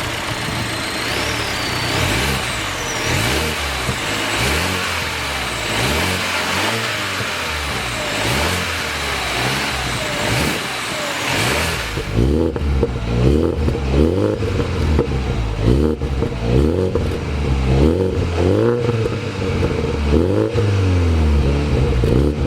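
The Toyota GR Supra's 2.0-litre twin-scroll turbocharged inline-four engine running and being revved repeatedly, each rev rising and falling. About halfway through, the sound turns duller and heavier, with quicker rev blips.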